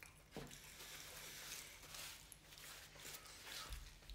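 Faint chewing and wet mouth sounds of a person eating fried fish nuggets and fries, with a short click near the start.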